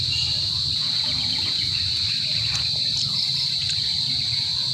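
Steady, high-pitched drone of insects, with a low steady rumble underneath.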